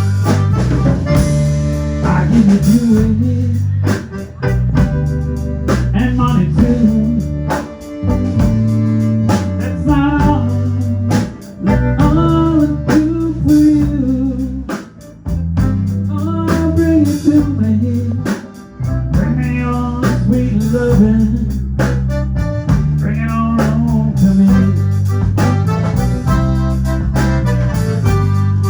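Band playing a blues-style song: a singer over electric guitar, organ, bass and drums.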